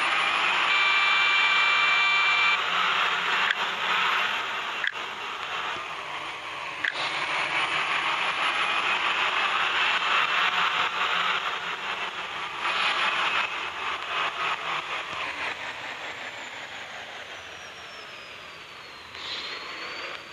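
Truck running, a steady noisy rumble that slowly fades toward the end, with a brief horn chord of several steady tones about a second in.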